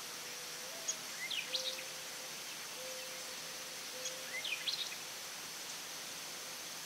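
A small songbird sings a short phrase of quick rising notes twice, about three seconds apart, over a steady high insect drone.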